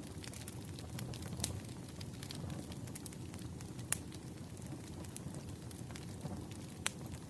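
Wood fire burning: a steady low rumble of flames with scattered sharp crackles and pops, two of them louder, about four and seven seconds in.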